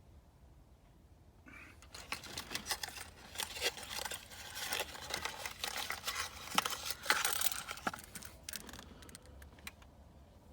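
Crinkling and rustling with many small clicks, starting about a second and a half in and fading near the end: hands handling the new PCV valve and its packaging.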